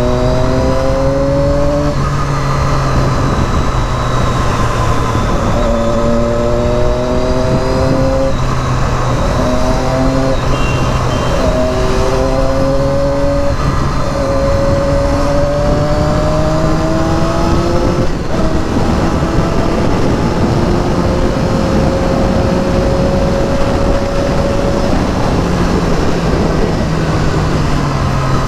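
Triumph Daytona 675R's inline three-cylinder engine pulling up through the gears, its pitch rising in each gear and dropping back at each upshift, over steady wind and road noise.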